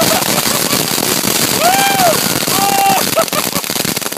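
A ground firework crackling densely and without a break. Several short rising-and-falling tones sound over the crackle about halfway through.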